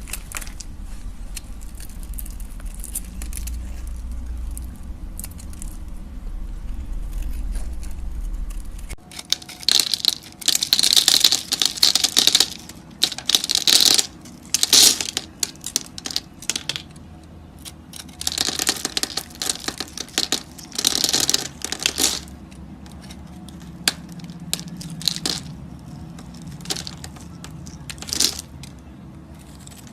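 A knife cutting and scraping through soap: groups of short, hissing scraping strokes begin about nine seconds in, followed by a few scattered light clicks. Before that there is only a low steady hum.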